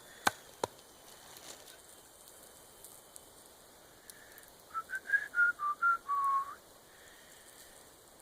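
A person whistling a short tune: about eight quick notes stepping up and down in pitch, ending on a longer, lower note. Two sharp knocks sound just before.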